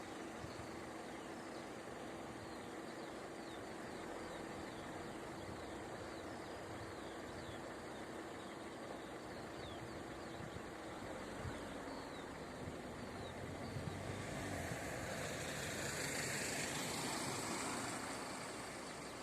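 Open-air background with birds chirping and a faint steady hum, then a road vehicle passing by: its noise swells from about two-thirds of the way in and fades near the end.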